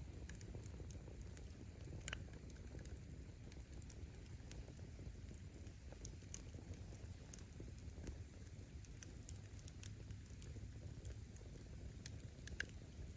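Wood fire burning: firewood crackling with scattered sharp pops over a low steady rumble of the flames, a few pops louder than the rest about two seconds in and near the end.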